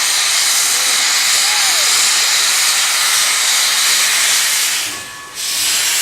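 Steam locomotive No. 40 letting off steam in a loud, steady hiss. It dips briefly about five seconds in, then comes back.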